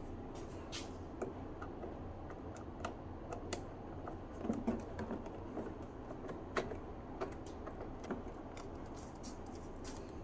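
Irregular light clicks and taps of hands and a screwdriver working on the plastic housing of a Hamilton Beach FlexBrew coffee maker as it is disassembled, with a small cluster of louder clicks about halfway through.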